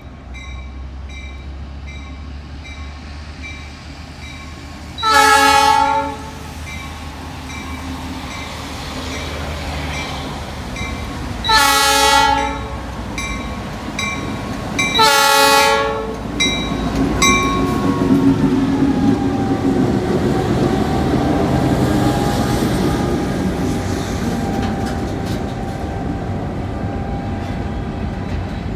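Indiana & Ohio Railway diesel locomotive approaching and passing close by. It gives three loud horn blasts about 5, 12 and 15 seconds in, over a bell ringing evenly, and the bell stops about 17 seconds in. Then the locomotive goes by and loaded covered grain hopper cars roll past with steady wheel clatter.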